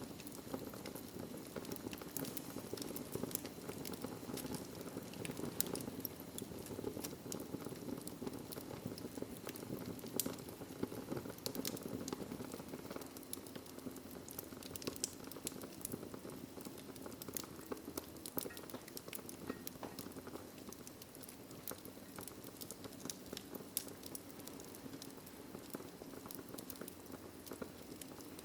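Wood fire burning in a fireplace: a steady low rumble and hiss of flames, with many small crackles and pops from the burning logs.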